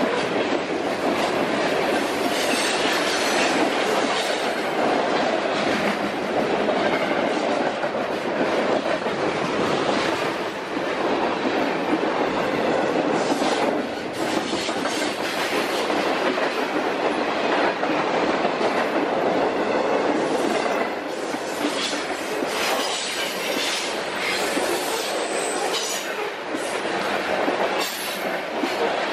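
Loaded freight cars rolling past at close range: a steady rumble of steel wheels with clatter over the rail joints. Brief high wheel squeals come in the second half.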